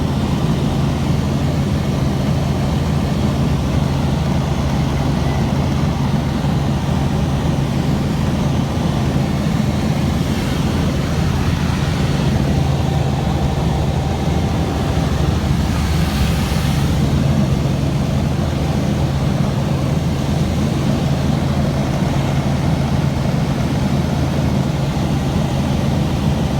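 Helicopter engine and rotor running with a loud, steady drone, heard on board.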